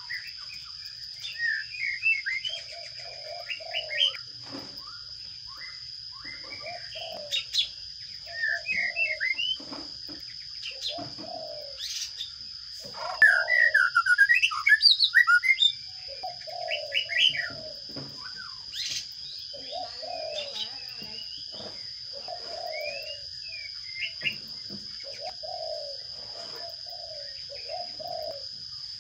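Sparrows chirping in short bursts, rising to a loud, rapid run of chirps about halfway through. A dove coos repeatedly under them, and a steady high-pitched drone runs beneath it all.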